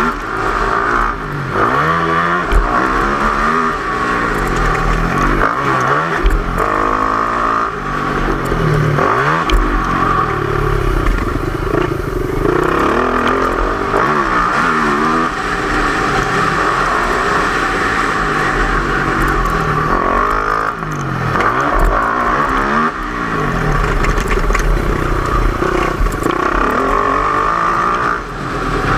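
Four-stroke motocross bike engine revving up and down over and over as it is ridden around a track, its pitch rising and falling every second or two.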